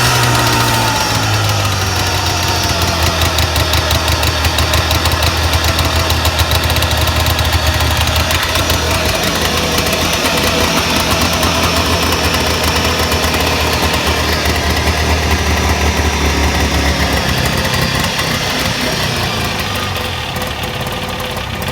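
Vintage Ski-Doo TNT 340's two-stroke Rotax engine running steadily on a cold start at about −32 °C, with a quick rev right at the start and then the speed slowly easing off. It runs good after sitting a month with its carb uncleaned, and gets a little quieter near the end.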